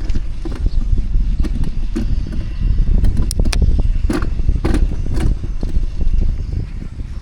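Heavy low rumble of wind on the microphone and road noise from a moving bicycle, with many short sharp clicks and knocks, thickest in the middle of the stretch.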